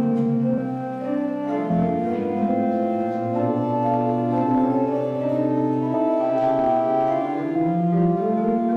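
Church organ playing a slow hymn in held chords that change every second or so.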